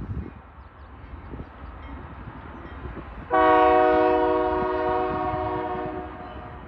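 Diesel locomotive air horn sounding one long chord of several tones, starting suddenly about three seconds in and fading over about three seconds, over the low rumble of the train.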